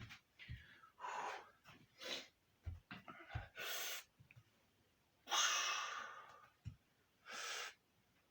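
A man's heavy breathing from physical exertion: a run of sharp breaths and forceful exhales, the longest and loudest about five seconds in.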